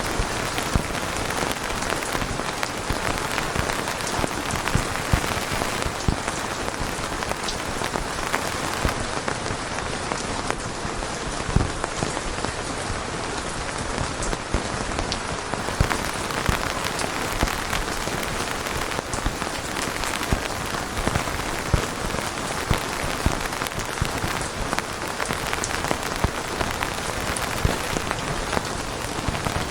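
Steady rain falling on a surface, an even hiss with many individual drops pattering and ticking.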